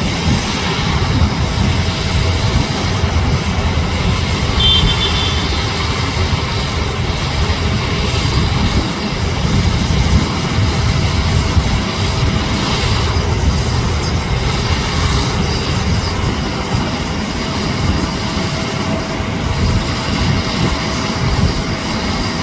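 Steady, loud rumble of a jet airliner's engines, heard as a broad roar with no clear rise or fall, and a brief high chirp about five seconds in.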